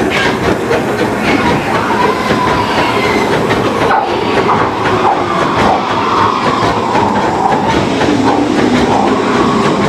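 Disneyland Railroad steam locomotive under way, heard from its cab: a steady loud rumble and clatter of wheels over the rail joints, with a wavering whine. The locomotive's oil fire is shut off, and it is running on the steam pressure left in the boiler.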